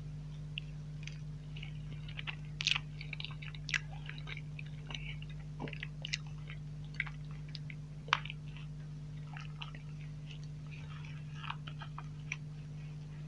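Close-miked chewing of a soft, creamy dessert: irregular wet mouth clicks and lip smacks, with a few light crunches, over a steady low hum. Near the end a wooden spoon scoops in the plastic cup.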